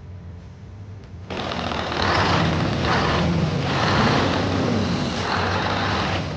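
Vehicle motor running, starting abruptly about a second in and surging up and down.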